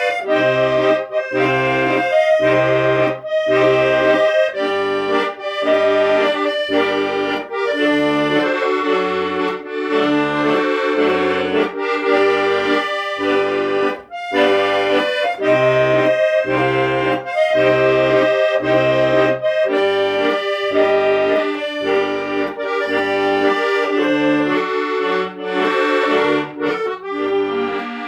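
Accordion playing an instrumental tune: a melody over regularly repeating bass notes and chords, with a brief break about halfway through.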